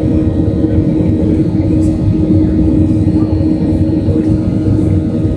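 Boeing 737-700 cabin noise during the climb after takeoff: a steady, loud rumble from the CFM56 turbofans and the airflow, with a constant low engine hum running through it.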